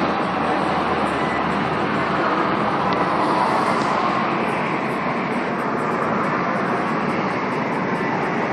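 Steady road traffic noise from a busy street, cars going by, a little louder for a moment about three to four seconds in.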